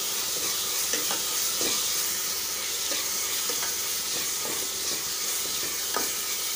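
Chopped onions, green chillies and ginger-garlic paste sizzling in hot oil in a metal pot as they are sautéed. A spatula stirs them and knocks against the pot now and then.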